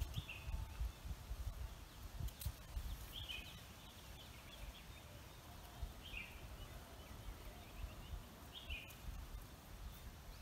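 A bird calling repeatedly outdoors at dawn: a short call that falls in pitch, four times about three seconds apart, over a low rumble of wind on the microphone.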